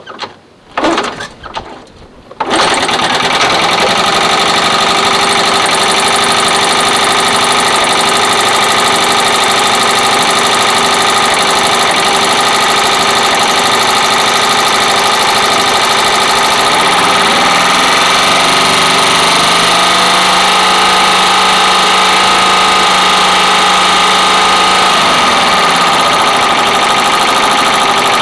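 A machine starts up about two and a half seconds in, after a couple of short sounds, and then runs loud and steady. A lower tone joins for several seconds past the middle.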